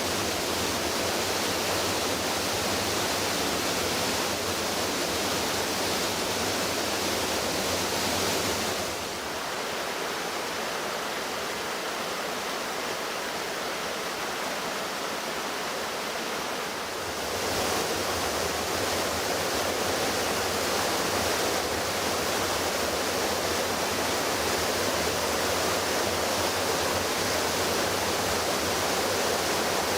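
Floodwater from a swollen river rushing in a steady, continuous wash of noise. It drops a little about nine seconds in and comes back up again a little past halfway.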